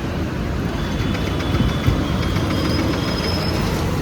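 Yamaha R15M's single-cylinder engine running steadily with an aftermarket exhaust while the motorcycle is ridden, under a constant rush of wind and road noise.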